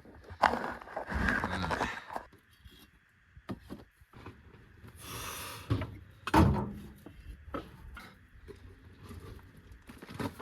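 Irregular metal knocks, clunks and scraping as the cut-off exhaust and muffler of a 2002 Audi A3 are worked loose from under the car, with a brief hiss about five seconds in and the loudest knock shortly after.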